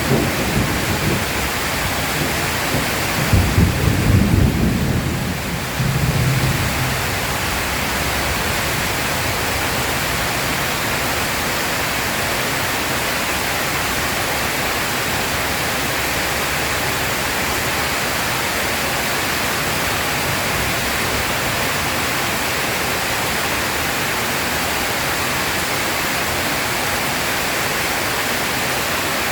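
Thunder rumbling a few seconds in, over steady heavy rain; after the rumble fades, only the even hiss of rain remains.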